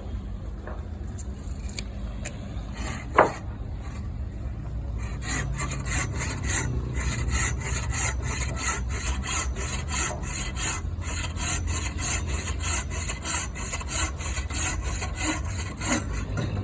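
A hand saw cutting wood in steady back-and-forth strokes, about two a second, growing stronger and more regular about five seconds in. A single sharp knock comes about three seconds in.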